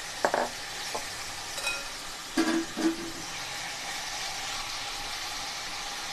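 Marinated chicken strips sizzling steadily in hot oil over high heat in a nonstick pan. A wooden spoon knocks and scrapes against the pan a few times as the chicken is stirred, loudest in a pair of knocks about two and a half seconds in.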